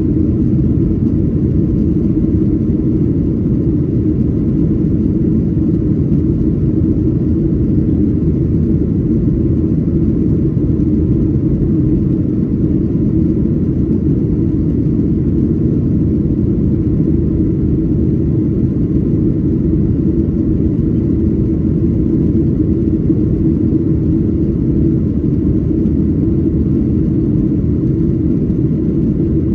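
Cabin noise of a Boeing 737-800 climbing out after takeoff: a steady low rumble of engines and airflow heard from inside the cabin.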